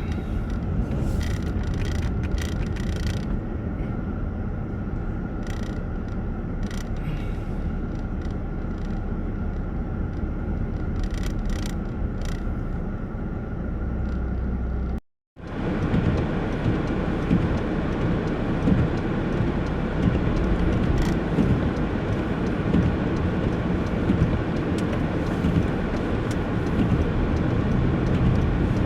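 Car interior noise while driving: steady engine and road noise heard inside the cabin, with scattered faint clicks in the first half. About halfway through it cuts out for a moment, then resumes slightly louder.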